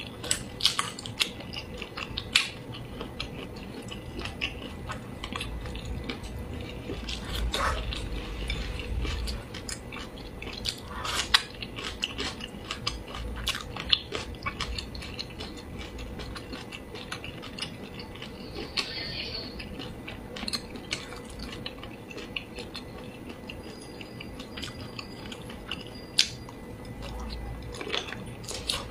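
Close-miked chewing of braised pork and squid, with irregular sharp clicks of wooden chopsticks against the plate.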